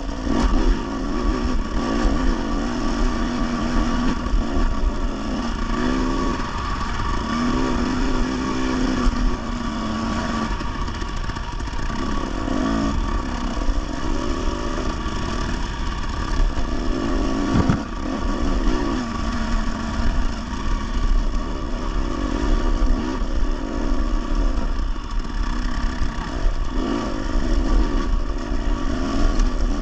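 Dirt bike engine revving up and down under load on a trail hill climb, its pitch rising and falling as the throttle opens and closes.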